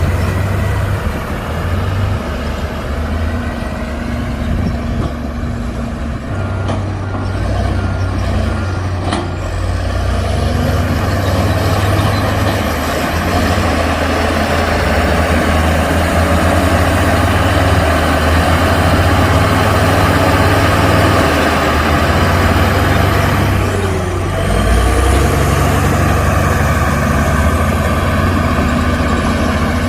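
Heavy diesel earthmoving machinery working: a continuous engine note that grows louder about a third of the way through and eases off briefly a few seconds before the end.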